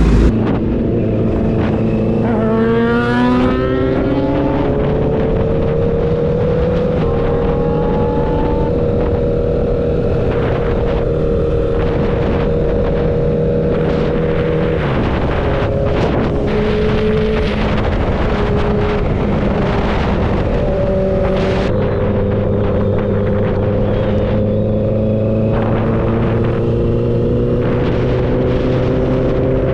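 Motorcycle engine running steadily under way, its pitch drifting slowly, with a rising rev about three seconds in.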